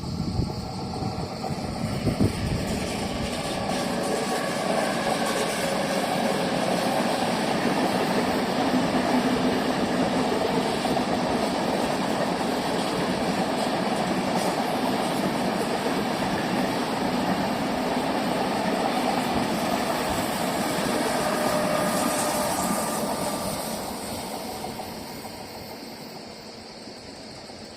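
A train passing. Its running noise comes up quickly at the start, holds steady for about twenty seconds, then fades over the last few seconds.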